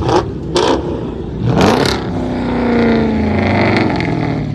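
Performance car engines revving loudly, the pitch climbing sharply about a second and a half in and then sliding back down, with a few sharp cracks in the first two seconds.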